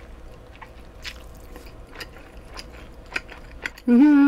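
Close-mic chewing of thin-sliced pork belly and noodles: soft wet smacks and small clicks of the mouth. About four seconds in, a loud, wavering hum from her throat takes over.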